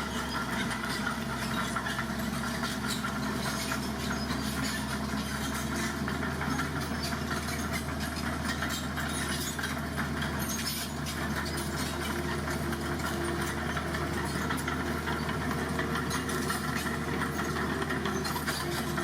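Dump truck's diesel engine running steadily with a low drone, with scattered clicks and rattles over it.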